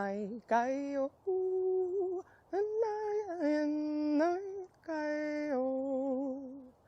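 A woman's voice singing wordless, slow held notes, unaccompanied, in several short phrases with brief pauses between, the early notes wavering.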